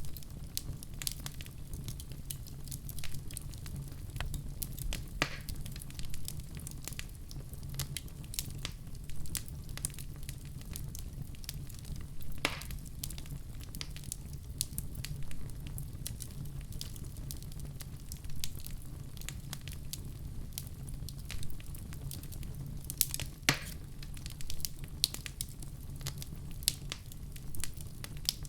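Wood fire in a fireplace crackling with many quick snaps and a few louder pops about five, twelve and twenty-three seconds in, over a steady low rumble.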